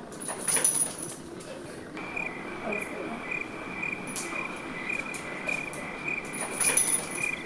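Cricket-like chirping: a steady high tone with a regular pulse, starting about two seconds in.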